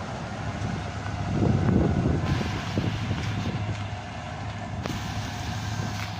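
Front-end loader engine running steadily, growing louder for a moment about a second and a half in, with a few sharp clicks over it.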